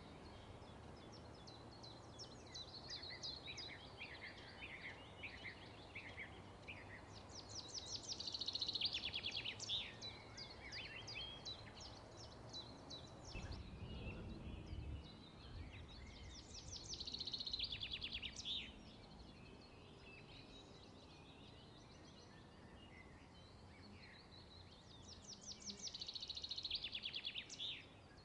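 Birds singing in the background: scattered chirps, then three bouts of a rapid high trill, about eight seconds apart, over a steady faint hiss.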